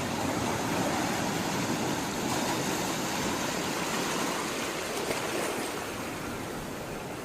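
Sea water rushing and washing, a steady dense rush that swells a little and then eases off near the end.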